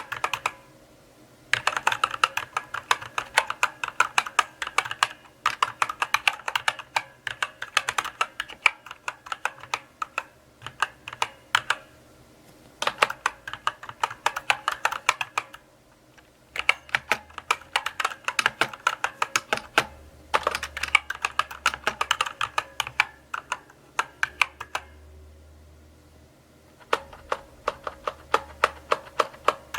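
Typing on a mechanical keyboard: runs of sharp key clicks and clacks in bursts of a few seconds, broken by brief pauses.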